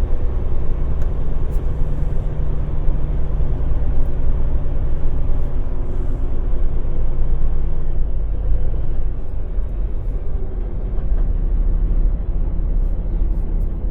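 Semi-truck's diesel engine running at low speed while the tractor moves to slide the trailer's tandem axles: a steady low rumble, with a low hum that drops away about five or six seconds in.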